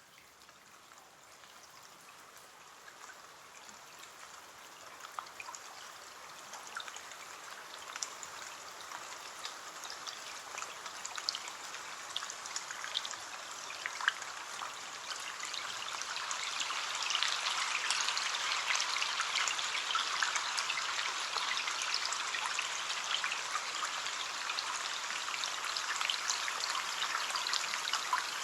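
Rain falling on a window, a steady patter with many small drop taps, fading in gradually over the first fifteen seconds or so and then holding steady.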